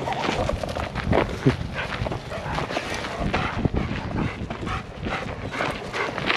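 Footsteps scuffing along a dirt trail, with a dog making a brief sound about a second and a half in.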